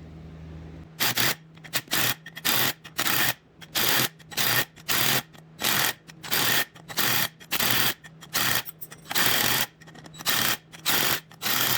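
DeWalt cordless driver run in short trigger pulses, about one to two a second, driving bolts into threaded holes to jack a worn bearing's inner race off its shaft.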